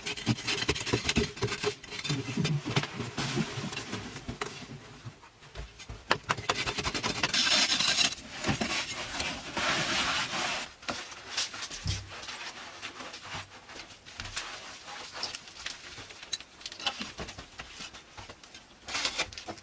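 Irregular scraping and rubbing with many short knocks, louder in stretches about seven and ten seconds in.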